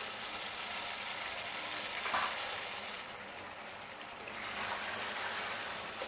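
Chicken in thick spiced gravy sizzling and bubbling in an open kadai on the gas stove, the meat cooked down in its spices (kosha) and nearly dry. A spatula starts stirring it near the end.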